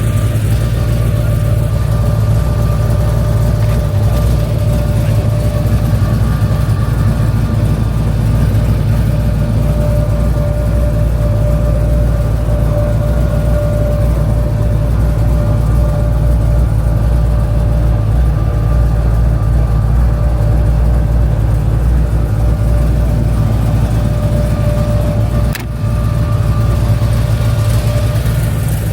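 A motor vehicle's engine running steadily with a low rumble and a faint steady whine. A brief click and a short dip in level come about 25 seconds in.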